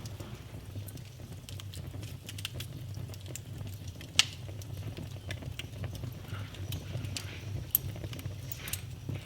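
Fire burning in a fireplace: a steady low rumble of flames with irregular crackles and pops, the sharpest pop about four seconds in and another near eight seconds.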